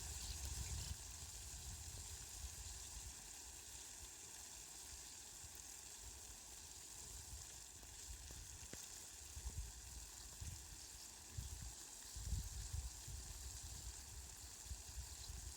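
Steady, faint hiss of falling rain. A low rumble comes and goes underneath, stronger in the last few seconds.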